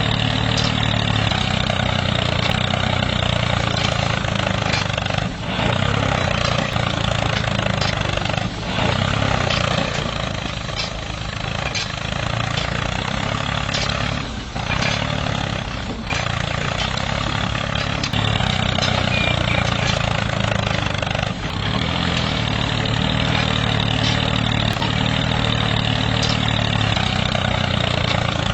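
The small engine of a homemade mini tractor running steadily, with a few brief dips in level.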